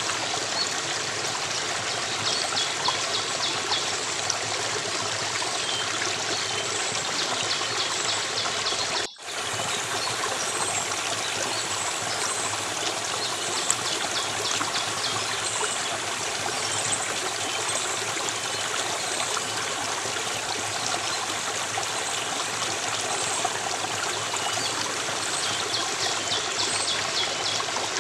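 Water running steadily like a small stream or trickle, with bursts of high, quick bird chirps now and then. The sound drops out for a split second about nine seconds in.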